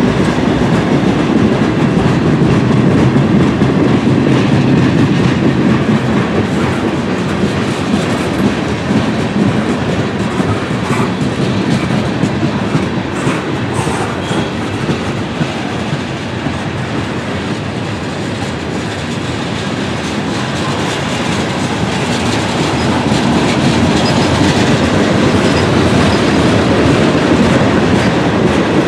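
Freight cars of a CSX manifest train (tank cars and boxcars) rolling steadily past close by: a continuous rumble of steel wheels on the rails that dips a little in the middle and builds again near the end.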